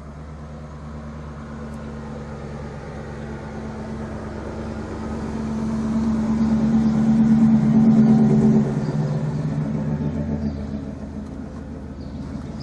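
A motor vehicle drives by slowly. Its engine hum builds to its loudest about eight seconds in, then drops away and fades.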